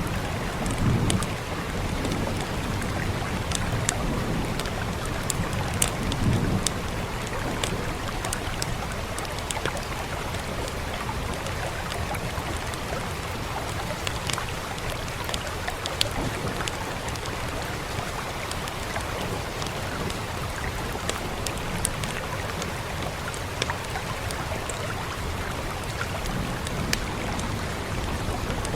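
Steady rain hiss with a wood fire crackling: scattered sharp pops and snaps over the even wash of the rain, with brief low rumbles swelling about a second in and again around six seconds.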